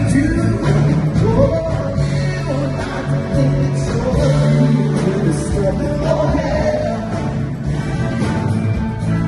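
A song rehearsal with a singer's voice over a rock band led by guitar, with a steady bass line underneath.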